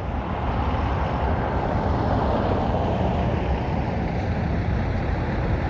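Steady road traffic noise from passing cars and trucks.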